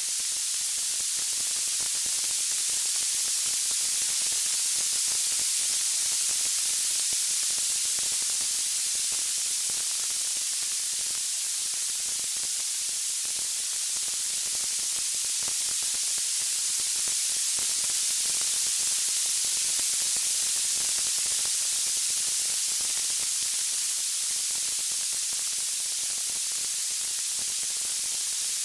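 Steady high-pitched white-noise hiss, with no crackles or pops, swelling and easing very slowly.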